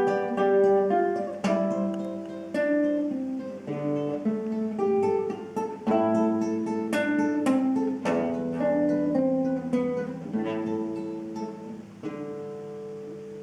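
Solo acoustic guitar playing the closing bars of a folk-song arrangement: plucked melody notes over bass notes, ending with a final chord struck about twelve seconds in that rings on and slowly fades.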